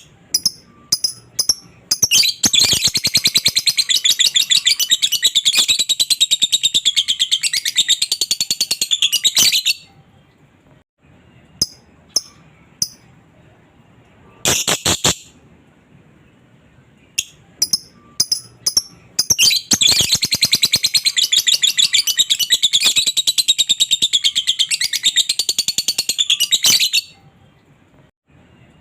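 Lovebird singing: two long, fast chattering trills of seven to eight seconds each, the first starting about two seconds in and the second about twenty seconds in, with short sharp single chirps between them.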